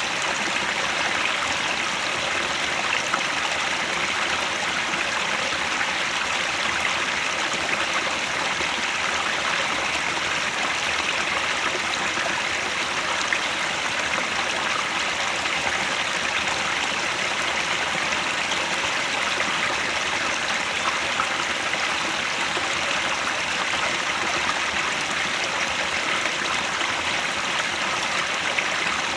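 Headwater stream flowing steadily: an even, unbroken rush of water.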